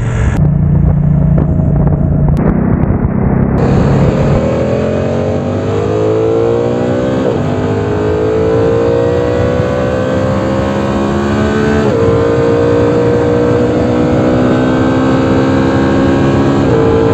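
BMW F900R's 895 cc parallel-twin engine, with its 270° crank, running steadily and then pulling hard through the gears. The note rises, drops at a gear change about seven seconds in and again about twelve seconds in, then climbs again.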